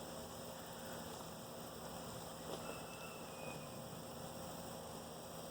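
Faint, steady buzzing hum of honeybees swarming over a frame pulled from an opened hive.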